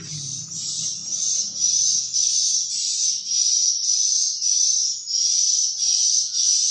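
Swiftlet chirps repeating steadily, two to three high twittering pulses a second.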